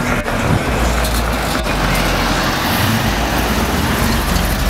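A car's engine running loudly and steadily.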